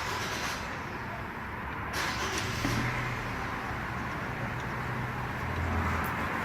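A car running, with steady road and engine noise and a low hum underneath.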